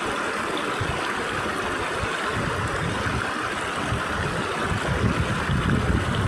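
Stream water rushing steadily through gaps between rocks. From about two seconds in, a gusty low rumble of wind on the microphone builds and grows louder.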